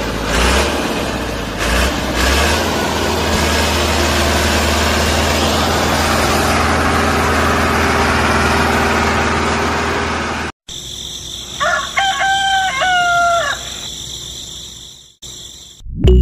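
A loud, dense, steady noise with a low hum runs for about ten seconds, then cuts off abruptly. In the quieter stretch after it, a rooster crows once.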